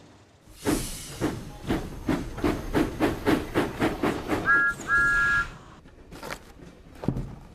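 Steam locomotive chuffing at about three puffs a second, then two short toots of a two-note whistle, then a quieter hiss with a few sharp puffs.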